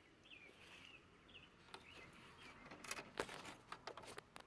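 Faint bird chirps, short curling calls repeated several times, with a few soft clicks and taps from about halfway on.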